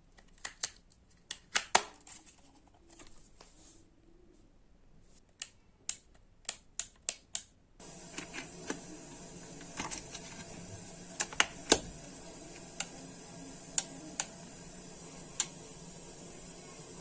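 Sharp, irregular clicks of small plastic switch parts being handled and pressed, the sound of the socket button being worked on. About eight seconds in, a steady hum and hiss starts suddenly, and the clicks go on over it.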